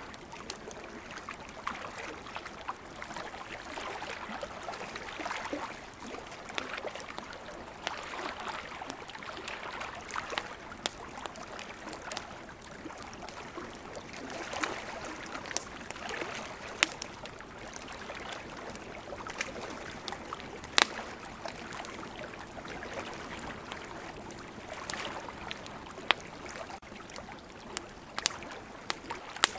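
Wood campfire crackling, with frequent sharp pops, over a steady wash of ocean surf that swells and eases every few seconds.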